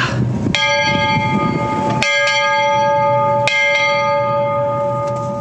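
A steam locomotive's bell rung by hand, struck three times about a second and a half apart, each strike ringing on with several steady overtones that slowly fade.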